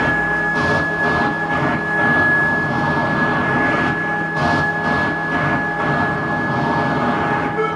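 Ambient soundscape: steady high drone tones held over a rumbling, rushing noise that swells and fades every second or so, train-like in character.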